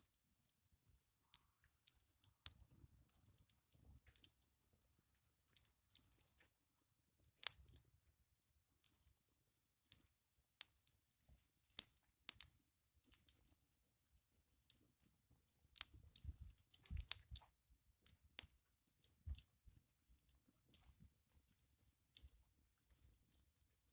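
Wood campfire burning, crackling with irregular sharp pops and snaps, a couple of them much louder than the rest.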